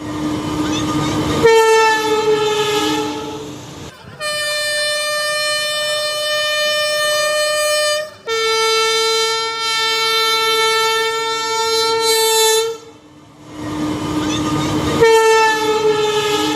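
Train horn sounding in long, loud blasts of a few seconds each, changing between a few different pitches with short breaks between blasts.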